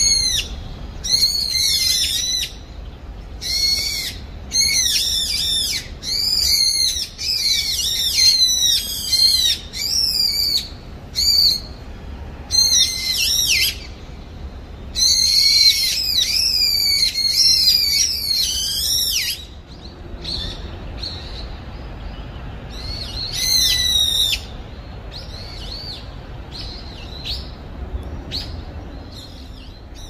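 Brown-eared bulbul giving loud, high, shrill calls in rapid clusters of arching, falling notes. The calls grow fainter after about twenty seconds, with one more loud burst a few seconds later.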